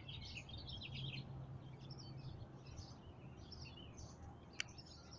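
Songbirds chirping, many short quick calls overlapping, faint. A single sharp click sounds about four and a half seconds in.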